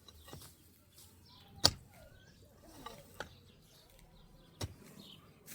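Sharp knocks: a loud one about a second and a half in, a weaker one about three seconds in, and another near the end, over faint bird chirps.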